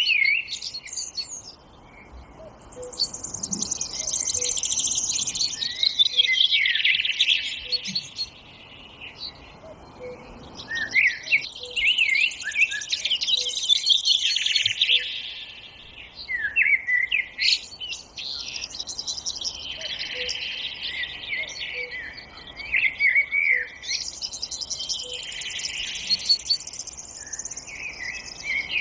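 Forest songbirds singing: long, rapid warbling songs of several seconds each, repeating with short pauses between them. Underneath runs a faint, low note repeated evenly about every second and a half.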